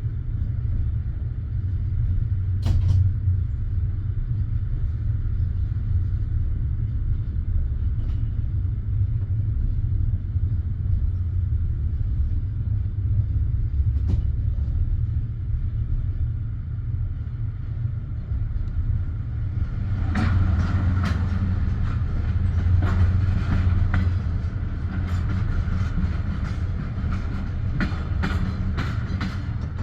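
Steady low rumble of a passenger railway carriage, with a single sharp click early on and a run of clicks and knocks from about two-thirds of the way through.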